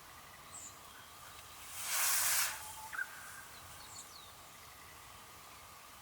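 Outdoor ambience with a few faint, short bird chirps over a steady background. About two seconds in, a loud rushing hiss lasts just under a second.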